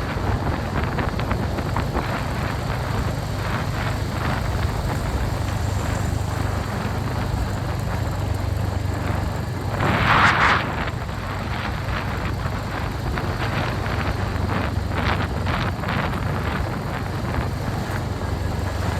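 Royal Enfield Hunter 350's 349 cc single-cylinder engine running steadily while riding, with wind noise. A brief louder rush of noise about halfway through.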